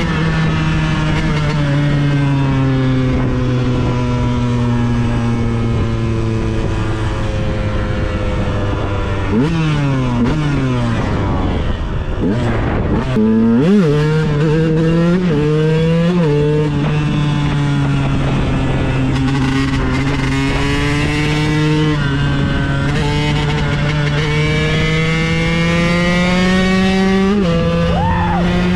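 KTM 125 EXC supermoto's single-cylinder two-stroke engine running at steady high revs, its pitch drifting slowly. About ten to sixteen seconds in, a run of quick revs and drops in pitch, as in gear changes. Near the end, one short blip of the throttle.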